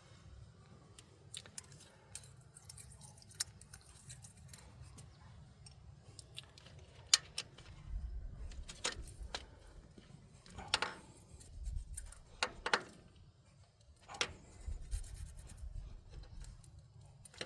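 Scattered metallic clicks and scrapes of hand tools working on an engine's valve train (rocker arms, adjusting screws and feeler gauge) while a valve's lash is set, with some duller knocks and handling noise in the middle.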